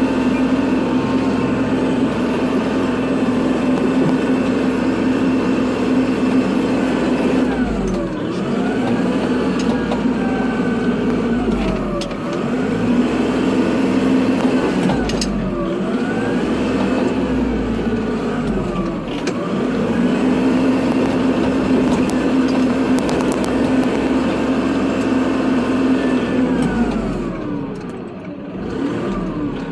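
Kubota tractor's diesel engine running steadily under load while plowing snow. From about eight seconds in, its whine dips in pitch and rises again several times, every three to four seconds, as the tractor slows and speeds up between passes.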